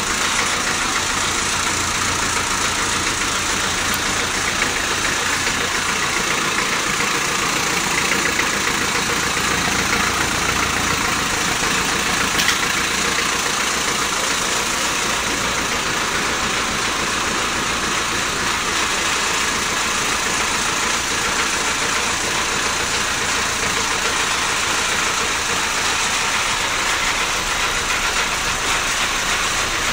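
1975 Land Rover 88's engine idling steadily, running again after standing unused for almost ten years.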